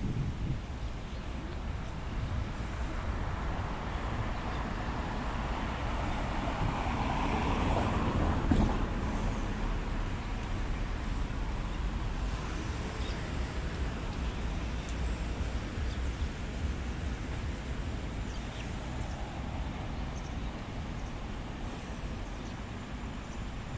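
Road traffic noise with a steady low rumble; one vehicle passes, growing louder to a peak about eight seconds in and then fading.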